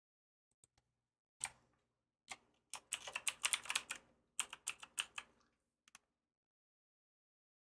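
Typing on a computer keyboard: a couple of single keystrokes, then two quick runs of clicking keys that stop about five and a half seconds in.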